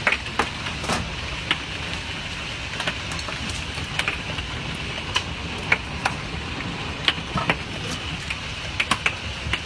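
Hailstorm: a steady hiss of falling hail and rain, with irregular sharp clicks and knocks of hailstones striking the window and house, about two a second.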